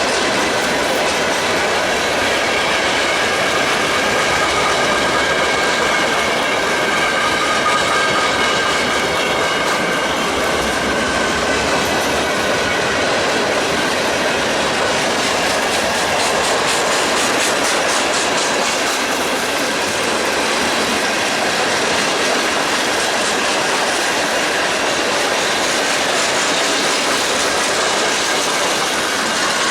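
Freight train cars rolling past, steel wheels running on the rail with a steady clickety-clack. A thin high wheel squeal comes and goes during the first half.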